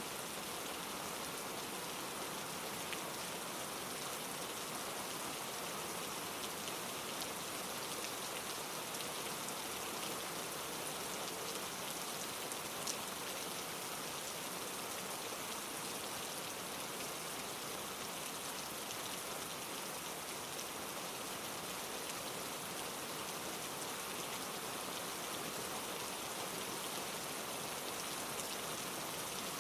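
Steady rain falling on leaves, a dense patter of drops with the odd louder drop about thirteen seconds in.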